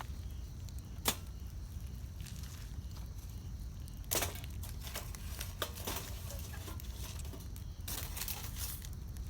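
Wood campfire crackling: sharp pops and snaps, the loudest about a second in, with clusters of crackles around four and eight seconds, over a low steady rumble.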